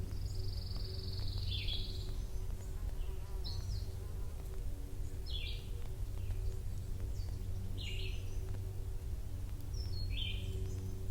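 Songbirds calling in short repeated phrases, about one every two seconds, with one longer high note near the start, over a steady low rumble.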